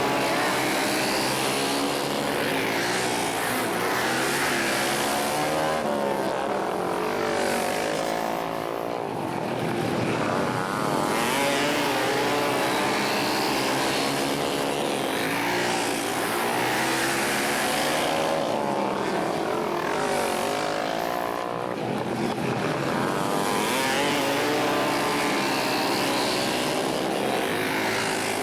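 Flat-track racing motorcycles running laps together, engines revving up and down in repeated swells as the pack comes past and moves away.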